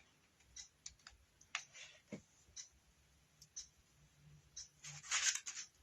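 Faint scattered clicks and light rustling from hands twisting fabric strips around a wire wreath form. There is a small knock about two seconds in and a denser burst of rustling near the end.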